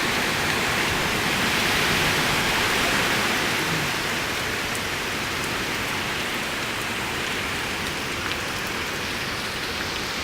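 Heavy hurricane rain pouring steadily, easing slightly about four seconds in.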